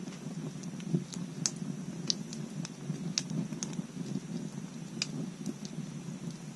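Wood bonfire crackling: irregular sharp pops and snaps of burning wood over a low, steady rumble of the flames.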